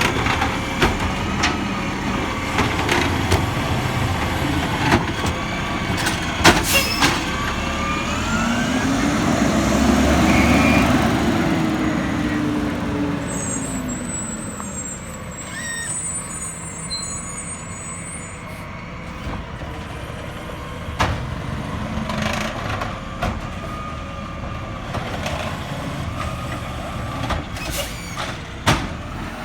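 Garbage truck working at the kerb: its engine runs under a steady hum, rising and falling in pitch once near the middle as it is revved, with sharp metal clanks a few seconds in.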